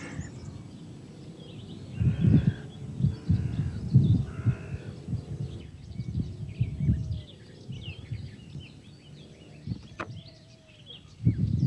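Small birds chirping and calling in the background, with bouts of low rumbling bumps about two to five seconds in and again near the end.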